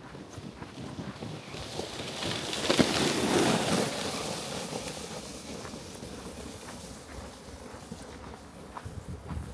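A gust of wind swells over a couple of seconds, buffets the microphone and then dies away.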